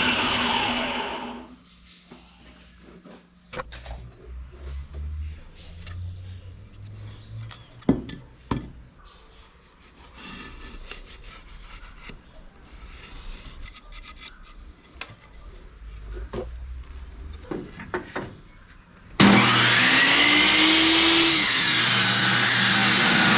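A power tool runs loudly and dies away in the first second or two. Quieter rubbing and scraping follows, with scattered sharp knocks. Another loud power tool cuts in suddenly near the end.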